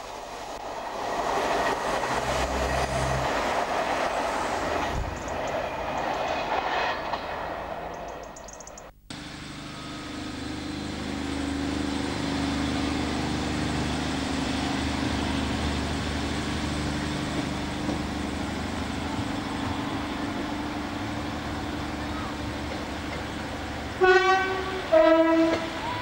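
Train running on the rails: a loud rushing noise that cuts off about nine seconds in, then a steady engine drone. Near the end come two short horn blasts, the second lower in pitch than the first.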